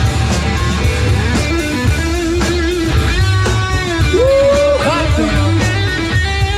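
Live rock band playing an instrumental passage: an electric guitar lead line with bent and sliding notes over bass and drums.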